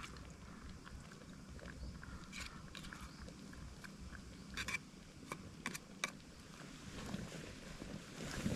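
Faint low rumble with a few short, sharp clicks scattered through it, about half a dozen in all.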